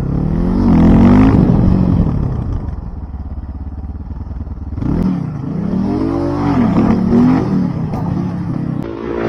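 Motorcycle engine revving hard in surges, its pitch climbing and dropping several times, with the biggest rise about a second in and another run of rises and falls from about five seconds on.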